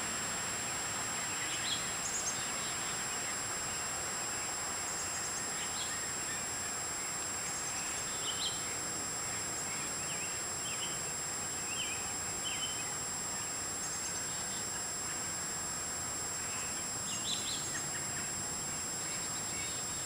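Short, scattered bird chirps every few seconds over a steady background hiss with a faint constant high whine.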